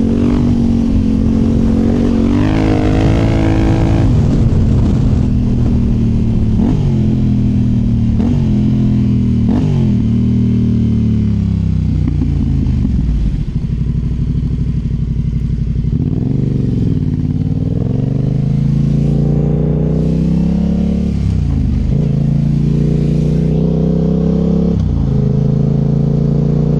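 2019 Yamaha Tenere 700's parallel-twin engine through a MIVV Dakar high exhaust, heard close to the exhaust while riding. The engine pitch climbs and drops again and again as the throttle is opened and closed, dipping lowest about halfway through before several more rises.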